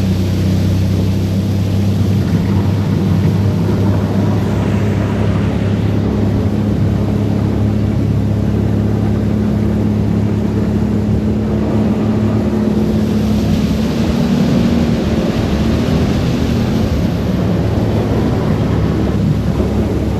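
Outboard motor running at a steady speed as the boat moves along, a constant drone with water and wind rushing over it; the rush swells for a few seconds past the middle.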